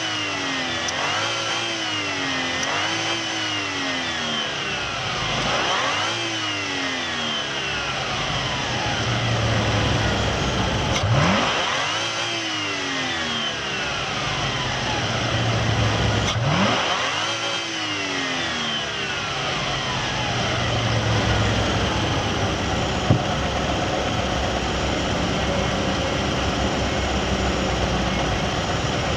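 Toyota Crown's supercharged 1G-GZE inline-six engine being revved repeatedly, the pitch rising and falling with each blip of the throttle, then running steadily for the last several seconds.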